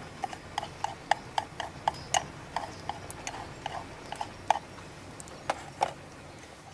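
A run of sharp, irregular clicks and ticks, about three or four a second, some with a short ringing note.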